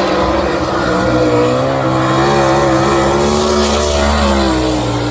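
410 sprint car racing engines running hard on the dirt oval, their pitch wavering up and down continuously.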